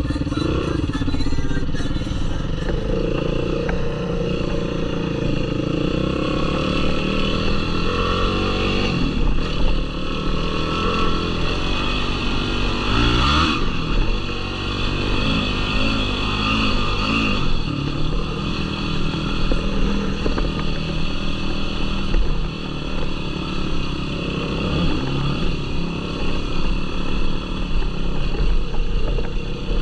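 Yamaha YFZ450R sport quad's single-cylinder four-stroke engine running under load, its revs rising and falling repeatedly as the throttle opens and closes.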